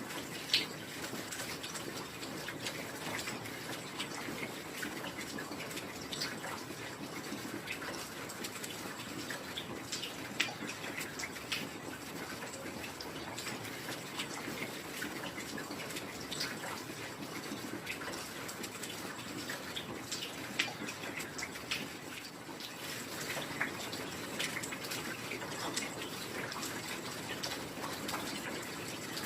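Heavy rain falling steadily, a constant hiss with many individual drops ticking sharply through it.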